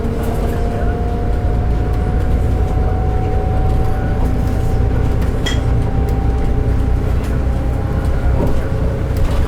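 Interior sound of a Volvo B8RLE city bus under way: a steady low drivetrain rumble with a thin whine that climbs slowly as it picks up speed, and a few short rattles.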